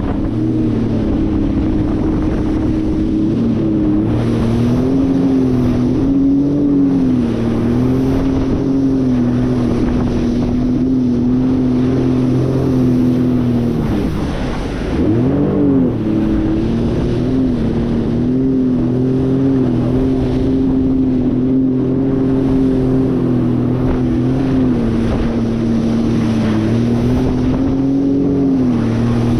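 Jet ski engine running steadily at speed, its note wavering slightly, with wind rushing over the microphone. About halfway through, the engine note dips briefly and then climbs back up, as when the throttle is eased and opened again.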